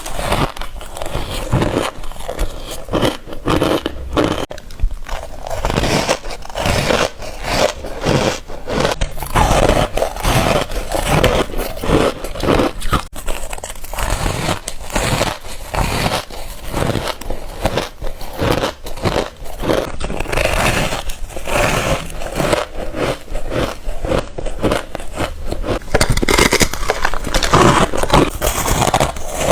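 Chunks of freezer frost and ice being bitten and chewed close to the microphone: a dense run of crunchy, squeaky crunches, one after another.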